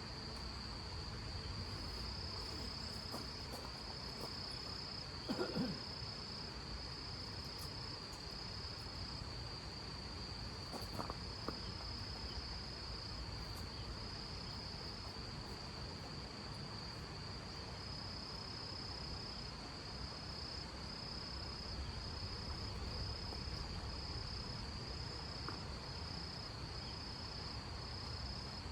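A cricket chirping in a continuous high trill with a slight regular pulse, over a low steady rumble. A short falling sound comes about five seconds in, and a faint click near eleven seconds.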